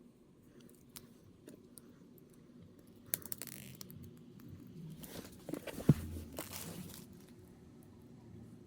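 Small plastic model-kit parts being handled and fitted together: a few light clicks, a short crinkly rustle about three seconds in, then a longer rustle with one sharp plastic snap about six seconds in.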